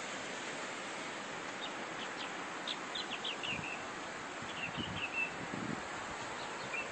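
Small bird chirping, quick runs of short high notes, over a steady outdoor hiss.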